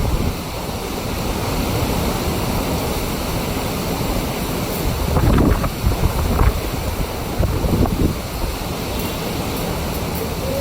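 Strong storm wind buffeting the microphone over the steady rush of heavy rain, with harder gusts about halfway through.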